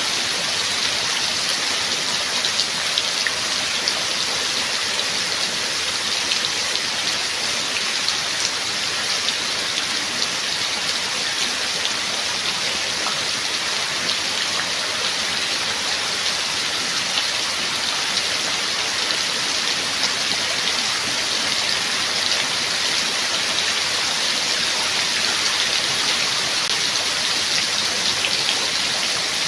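Steady rain falling: a dense, even hiss of drops with many small individual drop ticks, holding at one level throughout.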